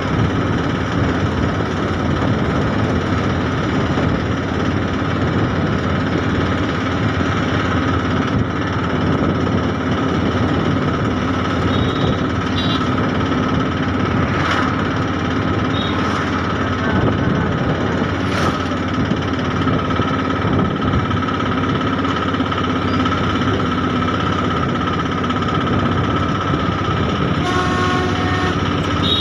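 Train running along the track: a steady, loud rumble and rattle with a constant whine, broken by a couple of sharp clicks.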